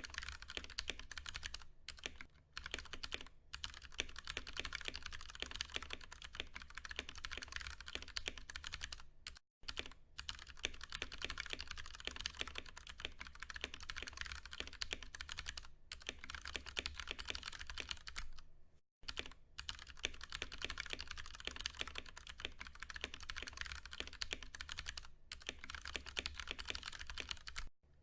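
Continuous fast typing on a Ducky One 2 Mini mechanical keyboard with Cherry MX Brown switches: a dense clatter of keystrokes, with two short pauses about a third and two thirds of the way through.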